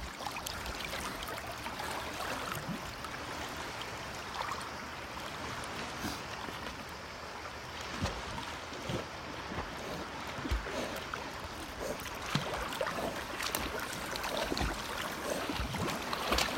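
Sea water washing and splashing, a steady wash with scattered small splashes and a few low thumps.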